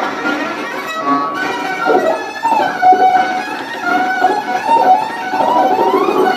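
Violin playing a slow, eerie melody: held notes, then notes sliding up and down from about two seconds in.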